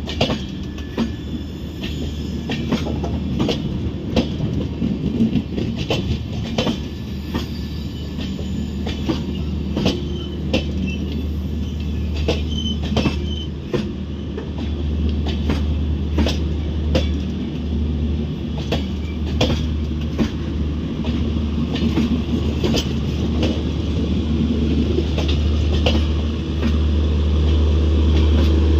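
Express train's passenger coaches passing close by, wheels clicking irregularly over rail joints over a steady low rumble. The rumble grows louder near the end as the rear coach comes by.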